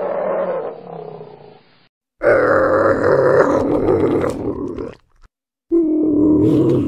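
Animal grunting and calling in loud stretches of a few seconds, cut apart by short silences between separate clips.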